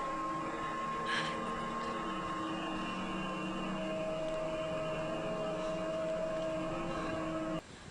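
A steady droning hum made of several tones at once, the unexplained noise she hears coming from the sky. A higher tone joins about halfway through, and the whole drone cuts off suddenly near the end.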